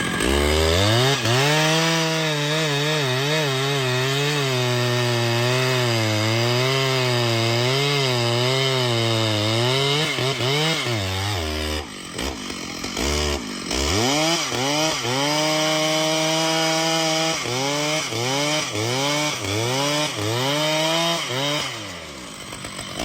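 Two-stroke chainsaw running at high revs while cutting wood, its pitch wavering and sagging under the load of the cut. Just before halfway it drops to idle. It then revs back up and cuts again, bogging down in several short dips.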